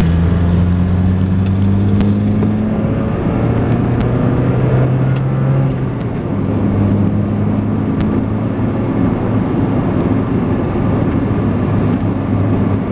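1992 Mazda Miata's 1.6-litre four-cylinder engine running through a Borla cat-back exhaust, its note climbing steadily under throttle. About six seconds in the sound dips briefly and the note changes, then it holds steady, with road noise underneath.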